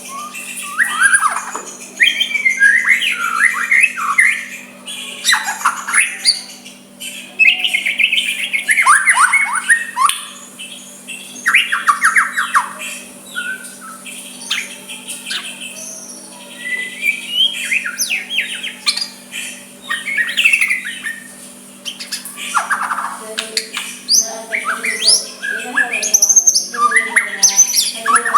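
White-rumped shama singing a varied series of phrases, clear whistles and glides mixed with rapid harsh chattering notes, with short pauses between bursts. A steady low hum runs underneath.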